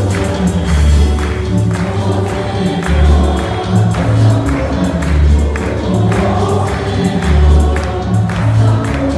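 Gospel worship song: a group of voices singing over a band with a heavy, pulsing bass line and regular percussion that includes a tambourine.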